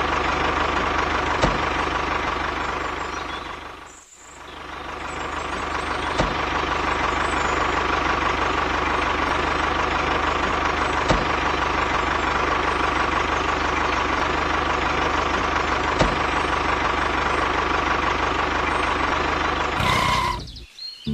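Tractor engine running steadily at a constant pitch, with a short click about every five seconds. The sound fades out and back in about four seconds in, and it cuts off at the very end.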